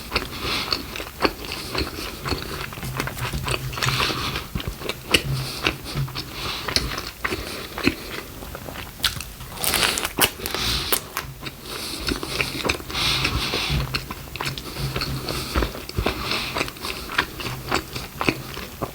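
Close-miked biting and chewing of Taco Bell food, with crisp crunches and wet mouth sounds in an irregular run; one louder crunch comes about halfway through.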